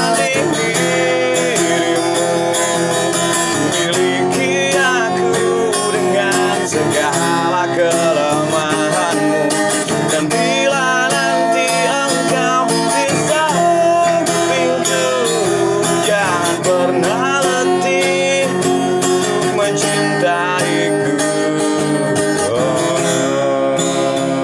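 Acoustic guitar music, strummed, with a wavering melody line carried over it.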